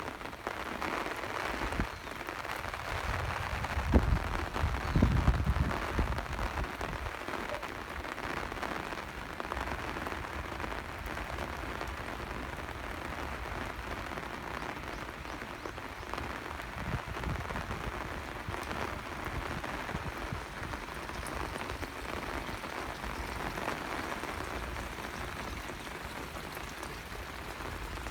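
Steady rain falling and pattering on surfaces, with a few louder low thumps about four to six seconds in.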